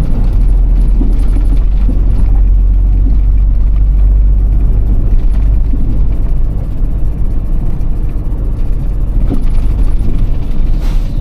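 Iveco Tector truck's six-cylinder diesel engine running steadily under way, a deep drone heard on board the cab, easing off somewhat about two-thirds of the way through, with a brief noisy burst near the end.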